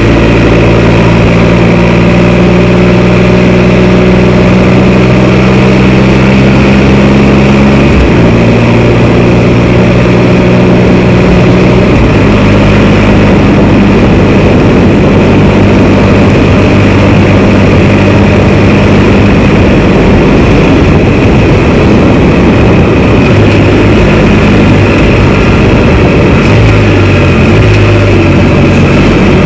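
Can-Am Spyder three-wheeled motorbike engine running on the road. The engine note steps to a new pitch about eight seconds in and again about twelve seconds in. A loud rushing noise then mostly covers it until the note comes through clearly again near the end.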